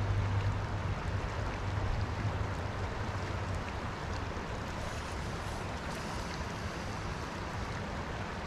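Stream water rushing steadily, with a low rumble in the first couple of seconds that fades.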